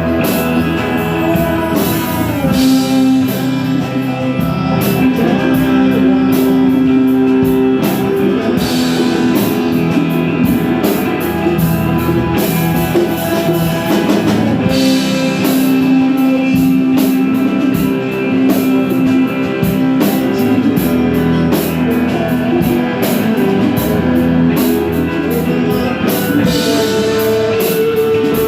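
Loud amplified band music with guitar and drum kit, a rock-style groove with long held notes.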